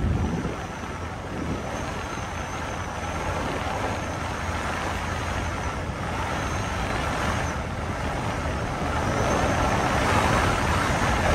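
Metra commuter train running along the track, heard from inside the leading car: a steady rumble and hiss of wheels on rail, with a faint high whine coming and going. It grows somewhat louder near the end.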